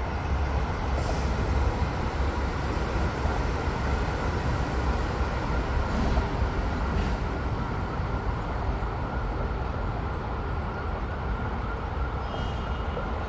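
High-speed train running past: a steady rumbling rush with a faint held whine.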